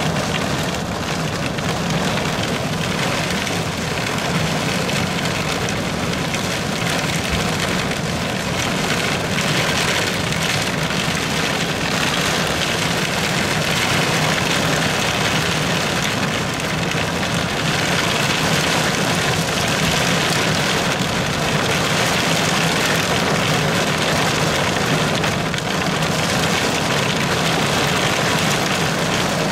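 Heavy thunderstorm rain pelting the car's windshield and roof, heard from inside the car as a steady, even hiss, with a steady low hum underneath.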